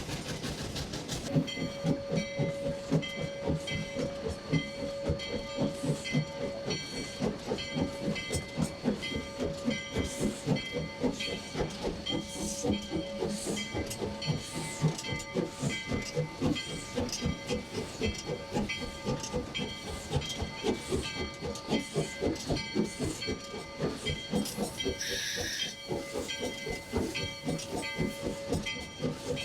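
The No. 40 steam locomotive working, with steady rhythmic exhaust beats and hissing steam under a steady tone.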